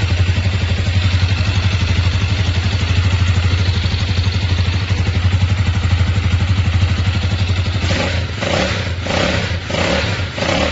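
Single-cylinder 164FMM four-stroke motorcycle engine idling with an even, rapid beat and no knocking. About eight seconds in, the sound turns choppy and uneven.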